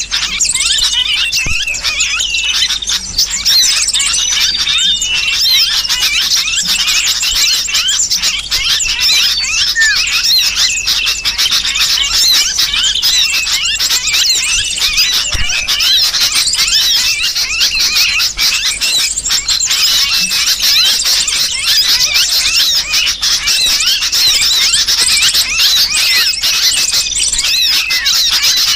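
Dense, continuous chatter of many small birds, with rapid high chirps and squeals, mixed with the distress calls of a sooty-headed bulbul (kutilang) that has been caught: a bird-trapping lure call.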